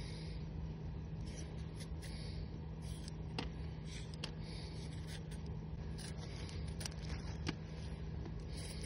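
Light scraping and rubbing with scattered sharp clicks, from hands working at food preparation, over a steady low hum.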